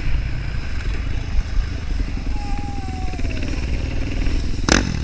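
Motocross bike engine running under a steady low rumble, with a faint tone dropping in pitch about two and a half seconds in. A single sharp knock comes near the end.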